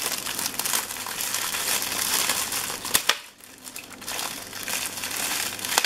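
Gift wrapping crumpling and crinkling as a present is unwrapped by hand, with a sharp click about three seconds in.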